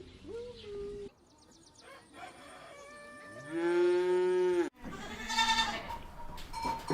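Farm animals calling: a short call, then about three seconds in a long, loud, steady bleating call that cuts off abruptly, followed by another higher call.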